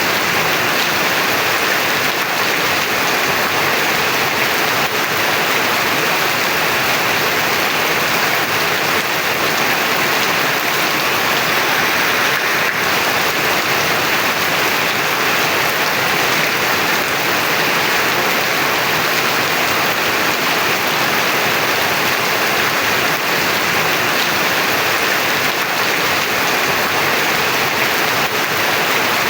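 Heavy rain falling steadily, a dense even hiss with faint scattered drop ticks and no letting up.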